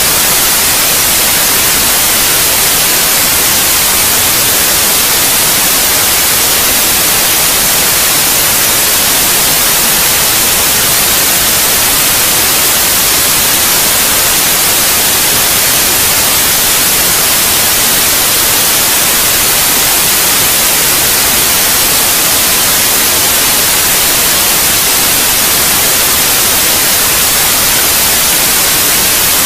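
Steady white noise: an even, unbroken hiss, brightest in the high end, with no changes or breaks.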